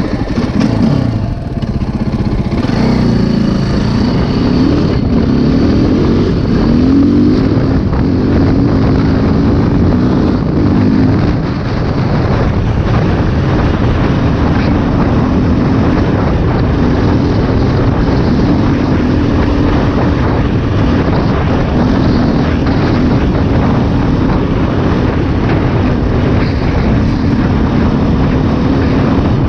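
2008 KTM 530 EXC's single-cylinder four-stroke engine pulling a dirt bike along a dirt road, its pitch rising and falling over and over with throttle and gear changes for about the first ten seconds, then running more steadily, with wind rushing over the microphone.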